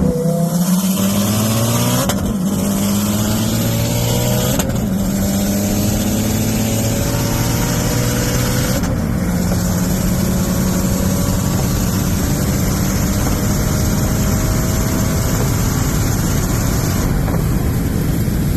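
The Mitsubishi Lancer Evolution X's turbocharged 2.0-litre four-cylinder, fitted with a big Precision 6266 turbo, accelerating hard through the gears. The engine pitch climbs and breaks at upshifts about 2, 4.5 and 9 seconds in, then holds steadier. A high hiss drops away near the end as the throttle comes off.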